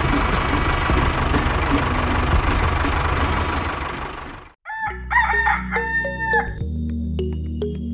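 A tractor engine runs steadily, then fades out about four and a half seconds in. A rooster crows straight after.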